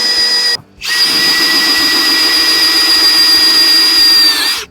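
Electric drill running at a steady high whine, boring 5/16 inch holes in sheet metal for plug welds. It stops briefly about half a second in, starts again, and runs down near the end.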